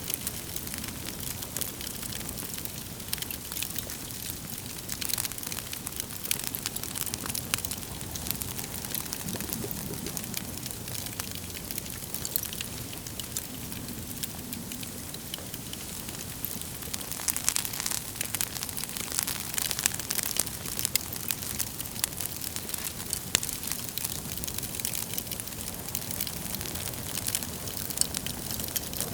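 Wood fire burning in a fireplace: a steady hiss of flames with frequent sharp crackles and pops from the logs, busier for a few seconds past the middle.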